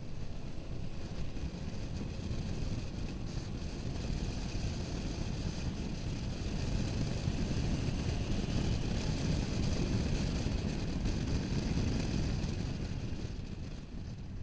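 Wind rushing over an action camera's microphone on a moving motorcycle, mixed with engine and road noise. It grows louder in the middle and eases near the end.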